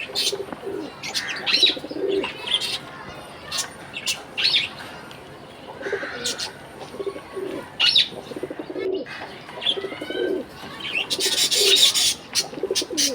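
Budgerigars chirping and chattering, with short high chirps mixed with low warbling notes and scattered sharp clicks. Near the end comes a loud burst of hissing, rustling noise lasting about a second.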